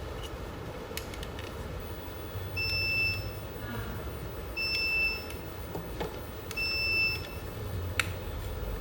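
Three identical electronic beeps, each a steady high tone of about two-thirds of a second, spaced about two seconds apart. A sharp click comes near the end.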